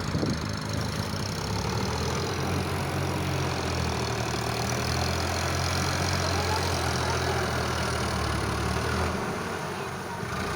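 Sonalika tractor's diesel engine running steadily with an even low drone, easing off about nine seconds in.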